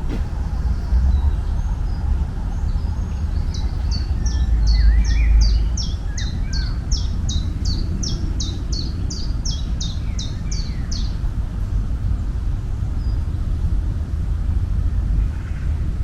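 A songbird singing a long series of about twenty high, quick, downward-slurred notes, roughly three a second, with a few softer chirps around it. A steady low rumble runs underneath and is the loudest sound.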